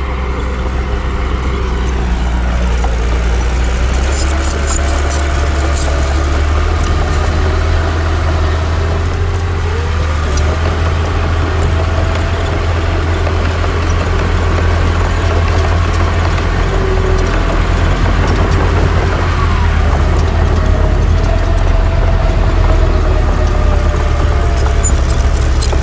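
Heavy diesel earthmoving machinery running steadily with a deep rumble, its engine note wavering and rising briefly about ten seconds in. Light sharp clicks and clanks are scattered through.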